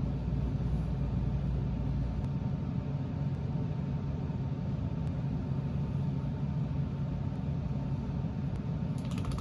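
Steady low rumble of a running engine, with a faint steady hum above it.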